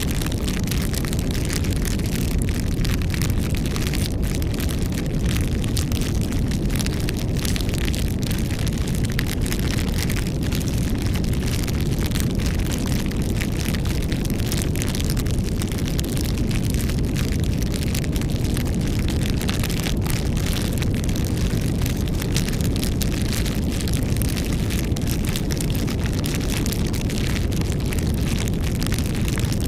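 Wood campfire burning, with dense, continuous crackling over a steady low rumble of the flames.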